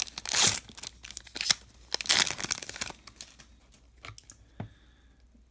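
Foil wrapper of a baseball card pack torn open and crinkled, in two loud rustling bursts in the first three seconds, then a few light clicks.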